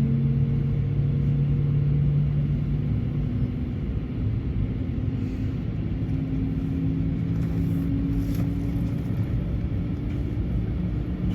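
Airbus A220-100 jet engines droning and rumbling, heard from inside the passenger cabin, with steady hum tones that rise slightly in pitch a few seconds in, as the airliner taxis out for takeoff.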